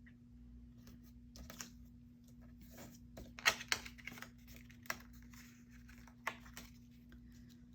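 Faint crinkling, tearing and small irregular clicks of double-sided score tape being handled and laid around a paper card panel, over a steady low hum.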